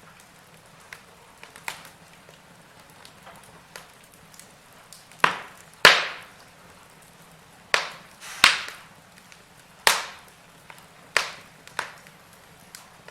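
Burning logs in a fireplace crackling over a faint steady hiss. Only small ticks for about the first five seconds, then about seven sharp, loud pops and snaps in the rest.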